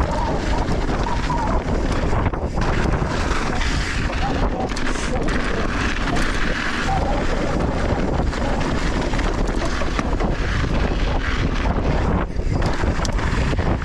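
Wind buffeting the action-camera microphone at riding speed, over the rattle and tyre noise of a mountain bike descending loose, wet volcanic-soil singletrack.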